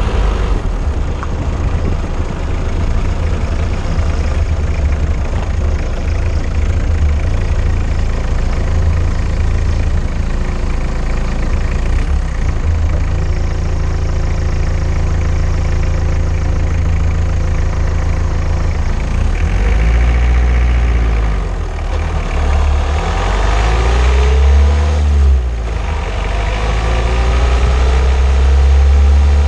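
Car being driven, heard from under the car at the front suspension: a steady, loud low rumble of road, tyres and engine. The engine's pitch falls and rises a few times in the last third.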